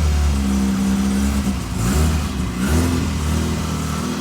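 MG Midget's newly fitted engine running just after a cold start without choke, revved briefly twice about two and three seconds in; the engine is still being run in.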